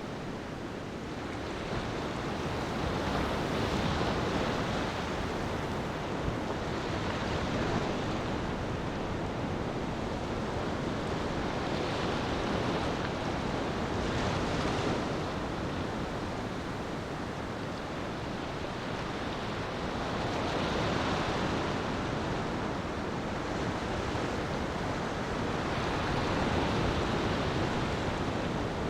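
Ocean waves washing onto a beach, the surf swelling and fading every few seconds.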